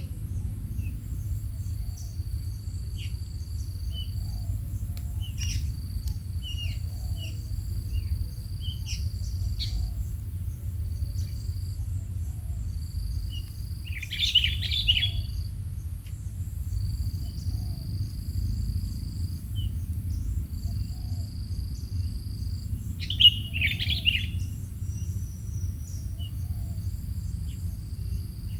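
Quail chirping in short high notes, with two louder bursts of chattering, one midway and one near the end, over a steady low hum. A high, steady buzz keeps starting and stopping in the background.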